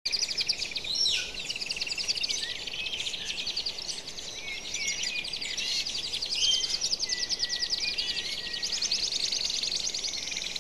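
A chorus of small songbirds, many chirping and trilling at once in overlapping rapid trills and short high whistles.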